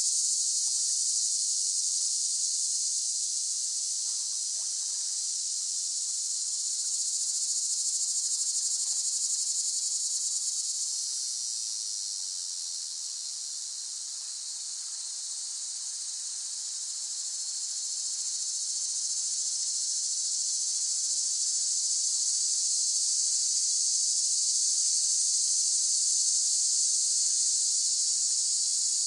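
Cicadas singing in a continuous high-pitched buzz that fades a little midway and swells back up.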